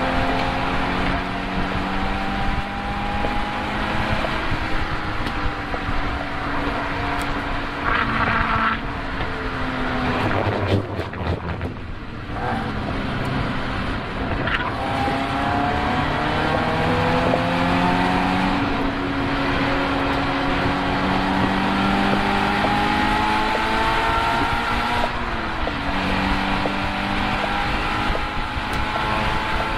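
Car engine running hard on a race-track lap: the revs climb steadily in each gear and drop back at the shifts. About ten to twelve seconds in there is a lull as it slows, then it pulls up again.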